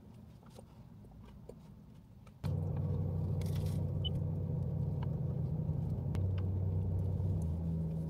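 Car engine idling with a steady low hum that comes on abruptly about two and a half seconds in.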